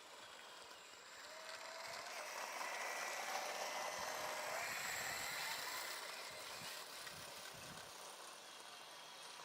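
A 480 motor running under test, a whine over a noisy rush that grows louder to a peak about three to five seconds in, then eases off.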